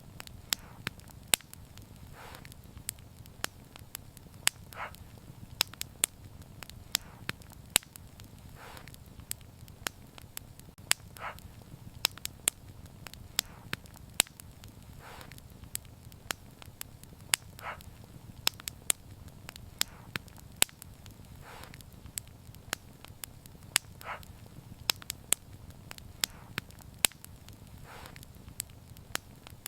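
Wood fire crackling: many sharp pops and snaps over a steady low rumble of flames, with softer hissing pops recurring every few seconds.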